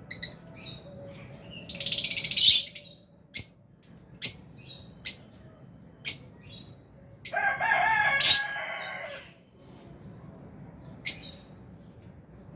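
Lovebirds chirping: sharp, shrill single chirps about once a second, with two longer, louder bursts, one about two seconds in and another lasting nearly two seconds from about seven seconds in.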